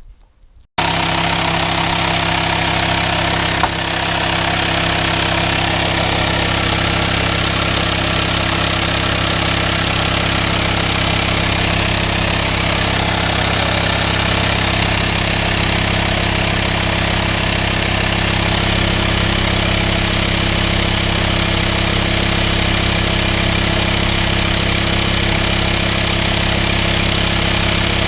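VW Transporter T5's 2.5 TDI five-cylinder diesel idling steadily, with a constant hiss from the engine bay that sounds like a vacuum leak.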